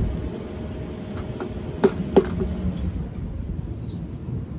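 Steady low outdoor background rumble with two sharp clicks in quick succession about two seconds in.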